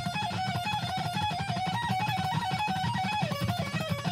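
Electric guitar playing a fast, evenly picked lead phrase from a solo, alternating between two neighbouring notes in repeated groups. The phrase steps down to lower notes a little after three seconds in.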